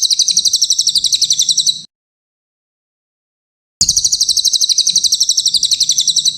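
Brown cililin bird singing a fast, high trill of evenly repeated notes, about ten a second. The trill stops abruptly a little under two seconds in, and after a two-second gap the same trill starts again.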